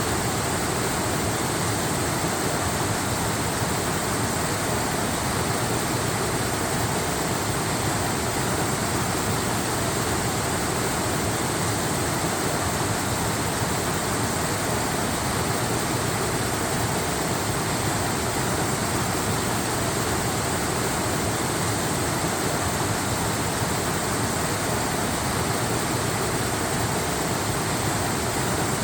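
Waterfall: water falling and rushing in a steady, unbroken wash of noise that never changes in level.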